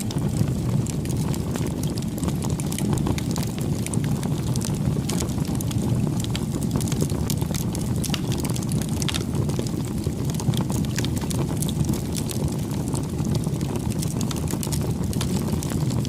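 Bonfire burning, with frequent small crackles and pops over a steady low rumble.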